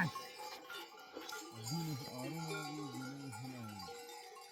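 Sheep bells clinking faintly, with one long, low, wavering bleat from a sheep in the flock from about a second and a half in.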